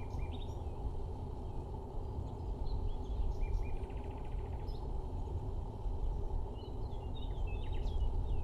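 Small birds chirping, with a short rapid trill about four seconds in, over a steady low rushing noise.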